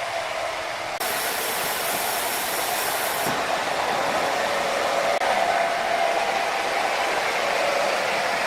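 Sawmill machinery running steadily with a continuous whirring noise and a hum, its tone changing abruptly about a second in and again around three seconds in.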